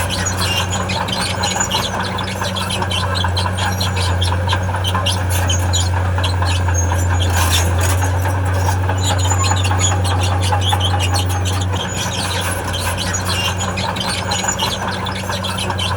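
Diesel engine of a tracked heavy machine running steadily under load, with its steel crawler tracks squealing and clicking as they move. The engine drone eases slightly near the end.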